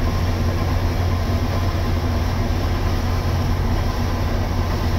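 International 1460 Axial-Flow combine running steadily during soybean harvest: a constant low diesel drone mixed with the whir and rush of the threshing and harvesting machinery.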